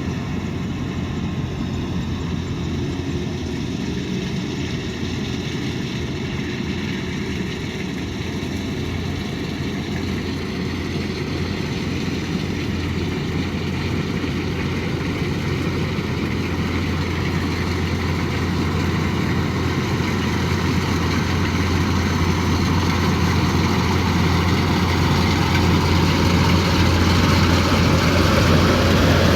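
Kubota DC108X combine harvester running steadily, a mechanical drone with a strong low hum that grows gradually louder from about a third of the way in.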